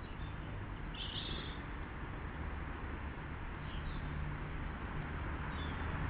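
Short, high chirps from a small bird: one clear call about a second in, then a couple of fainter ones later. Under them runs a steady background hiss with a low hum.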